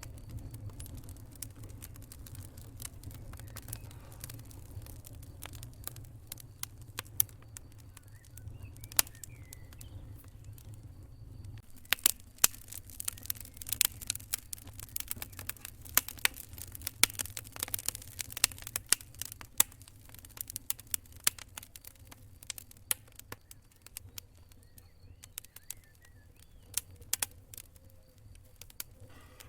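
Wood fire crackling and popping in irregular sharp snaps, busiest and loudest in the middle, over a low steady rumble that stops about twelve seconds in.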